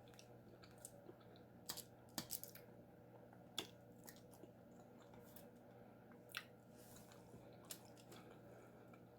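Faint chewing on baked chicken, with a scattered handful of soft, sharp mouth clicks and crunches over a low steady hum.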